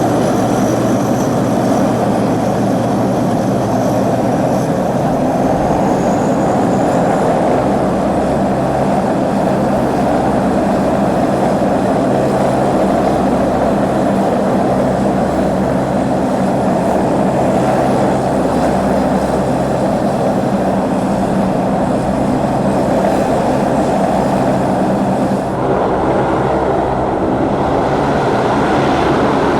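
Aircraft engines running steadily at close range, an even roar with a low hum; the tone changes slightly near the end.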